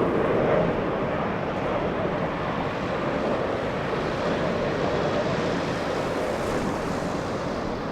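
Jet airliner engine noise: a steady, loud rush that eases off slowly.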